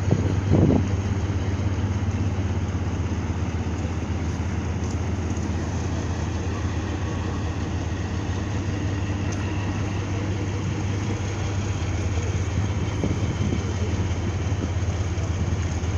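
A ship's diesel engine running steadily at low revs as a vessel manoeuvres to dock, a constant low hum. There is a brief louder sound about half a second in.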